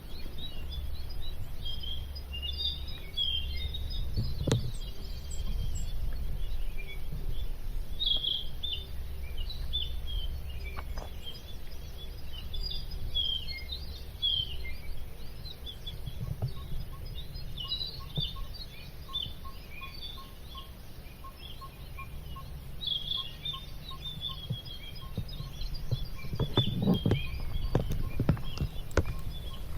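Several forest birds chirping and calling over a steady low rumble. From about halfway, a short note repeats about twice a second, and a few knocks come near the end.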